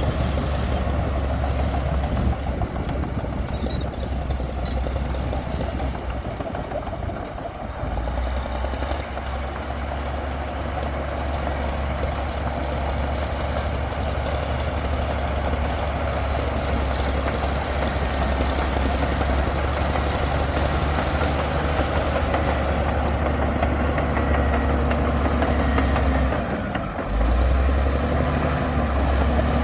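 Heavy diesel engine of a Komatsu D60P crawler bulldozer running steadily while working. It dips briefly about seven seconds in, dips again near the end, then comes back louder.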